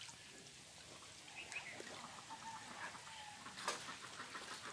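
Faint scattered bird calls over quiet pond water, with one short sharp sound about three and a half seconds in.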